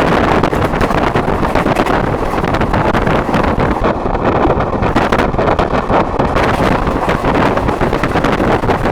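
Moving train heard from an open window: a steady, loud rush and rumble, with wind buffeting the microphone.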